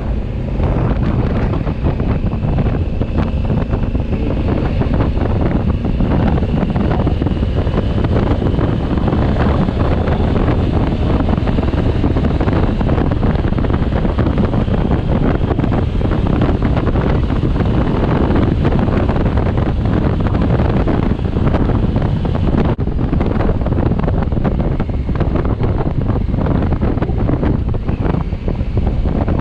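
Wind rushing over the microphone of a moving 2020 Honda Africa Twin, with the motorcycle's engine running beneath it.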